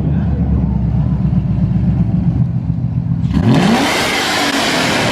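Car engine with a loud aftermarket exhaust idling with a deep rumble, then revved hard about three and a half seconds in, the pitch climbing quickly into a loud roar.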